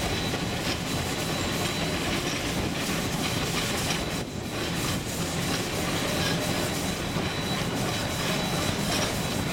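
Narrow-gauge steam train rolling along the track, heard from an open car: a steady rumble and clatter of wheels on rail.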